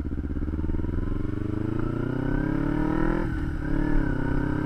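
Kawasaki Ninja 250's parallel-twin engine under way, its revs rising steadily for about three seconds, then falling suddenly and settling to a steady note.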